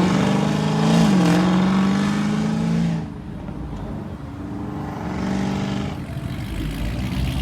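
Car engine accelerating hard, its pitch bending briefly near the start and again about a second in. About three seconds in the sound drops suddenly to a quieter engine note that swells a little again before the end.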